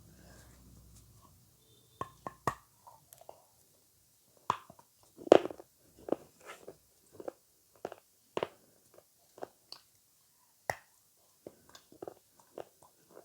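Close-miked mouth sounds of eating avocado: a run of separate bites and chewing clicks, the loudest a little past the middle. A faint low hum lies under the first second or two.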